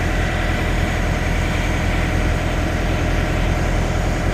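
Semi-truck diesel engine idling steadily, with a thin steady high tone above the engine.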